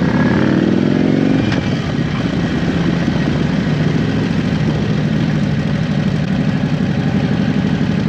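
Motorcycle engine running, its pitch gliding during the first second or so, then holding a steady, pulsing note.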